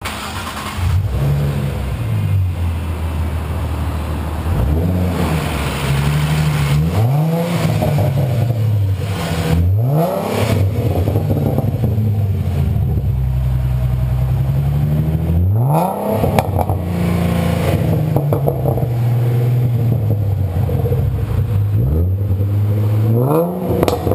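2012 Ford Mustang's 3.7-litre V6 exhaust through Coffin mufflers, revved again and again: some slow swells and several quick blips that climb sharply and then fall back more slowly toward idle.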